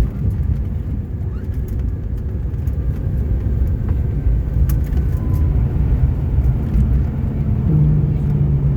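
Cabin noise inside a Bombardier CRJ900 on the ground after landing: a loud, steady low rumble from its rear-mounted engines and wheels, with scattered light ticks and rattles. A low steady hum comes in near the end.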